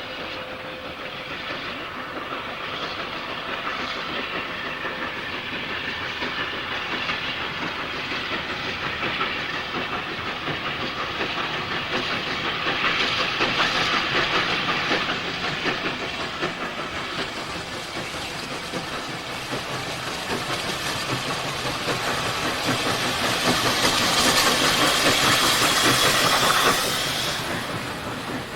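Steam locomotive working past with a train: rapid exhaust beats and steam hiss. It gets louder twice and is loudest shortly before the end, where the sound suddenly drops.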